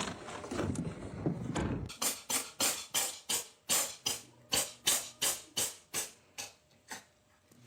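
A rapid, regular series of short scratchy strokes, about three or four a second, starting about two seconds in and stopping shortly before the end.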